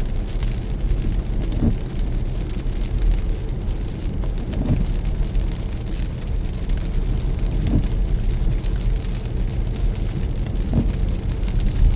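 Car driving in the rain, heard from inside the cabin: steady low road and engine rumble under a fine patter of rain on the glass and roof. A faint sweep recurs about every three seconds, the windshield wipers.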